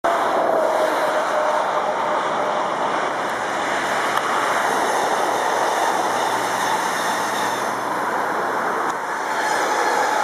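Sprinter Light Train electric multiple unit passing close by: a steady rush of wheel-on-rail and air noise. A faint tone falls slightly in the first second or two, and a higher whine comes in near the end.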